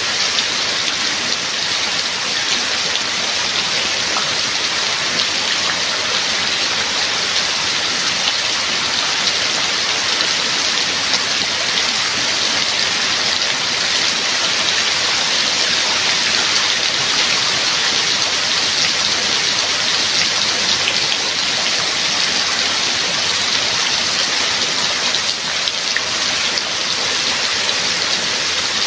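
Steady heavy rain, a dense even hiss of falling drops with fine pattering.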